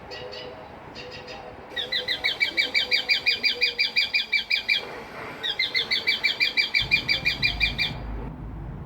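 A bird calling in two fast runs of sharp, high repeated chirps, about nine a second, each run lasting a few seconds. A low rumble comes in near the end.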